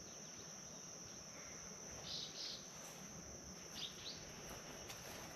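Steady high-pitched drone of insects, with a few short bird chirps about two seconds in and again around four seconds.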